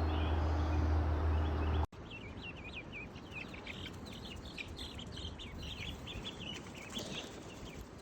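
A steady low hum for about the first two seconds, cut off abruptly, then a brood of baby chicks peeping: many short, high, overlapping peeps.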